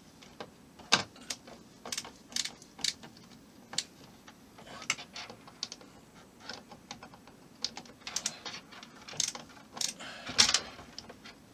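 Small screw being tightened with a hand screwdriver into a plastic model part: irregular light clicks and ticks, with a louder clatter about ten seconds in.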